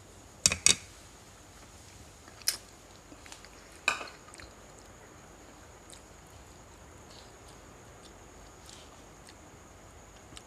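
Eating utensils clinking against dishes during a meal: four sharp clinks in the first four seconds, then only faint sounds.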